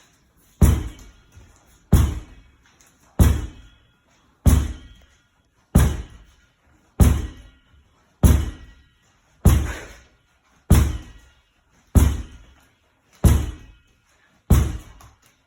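A ball striking a wall in a steady rhythm, twelve hits about one every 1.3 seconds, each a sharp thump with a short ringing decay.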